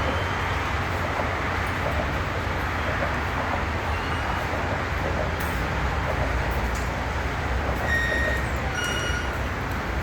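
New Jersey Transit train running at a station, a steady rumble and rushing noise, with two short high-pitched tones near the end.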